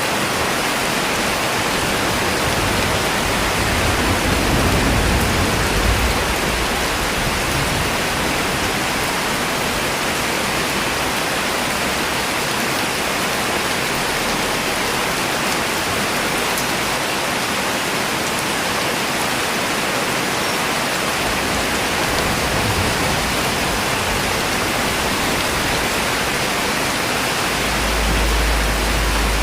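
Steady rain falling, an even hiss without a break. A low rumble swells a few seconds in and again near the end.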